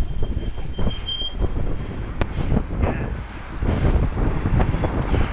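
Wind buffeting a bike-carried camera's microphone as a low, uneven rumble, mixed with passing road traffic. A single sharp click comes a little over two seconds in.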